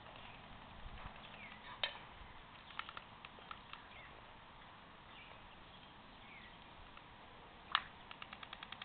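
Albatross clacking its bill: a few scattered sharp clacks, then near the end one loud clack followed by a rapid rattle of clacks, several a second. Faint short sliding whistles come in between.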